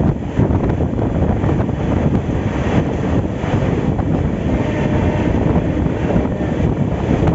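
Moving passenger train heard from on board: a steady rumble of wheels on the rails, with wind buffeting the microphone.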